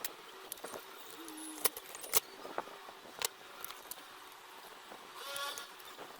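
Scattered small clicks and light metallic clinks of tools and small parts handled during amplifier repair work, with a brief squeak about five seconds in.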